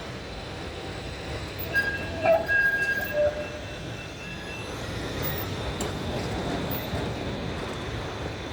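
Tram running on its rails with a steady rumble. A few high-pitched wheel squeals come in about two seconds in and last about a second and a half.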